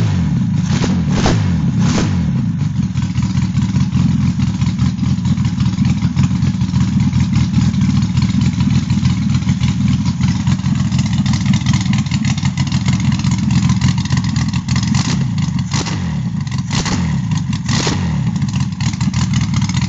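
Rebuilt Renault 5 Alpine four-cylinder engine, with a lightened, balanced crankshaft and flywheel, reworked camshaft and programmable electronic ignition, running at a steady idle. It is blipped a few times about a second in and again near the end, the revs rising quickly and dropping back each time.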